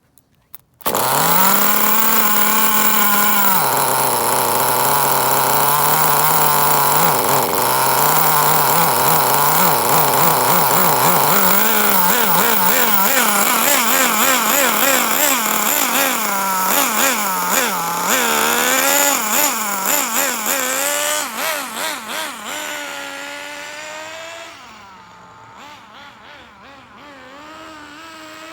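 HPI RS4 3 Evo's SH-18 two-stroke nitro engine running in during break-in, cutting in suddenly about a second in. Its pitch drops and holds, then rises and falls again and again as the car is throttled up to about three-quarters and braked. It gets quieter near the end and comes back louder.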